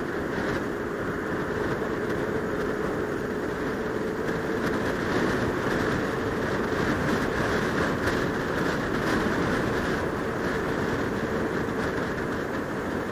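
Motorcycle engine running at a steady cruise under steady wind rush on a helmet-mounted microphone.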